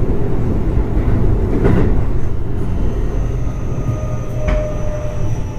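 In-car running noise of a Keio 8000-series electric train with Hitachi IGBT-VVVF inverter drive: a steady wheel and track rumble, with a couple of knocks from the track. About three seconds in, a high inverter whine comes in, then a lower motor tone, both slowly falling in pitch.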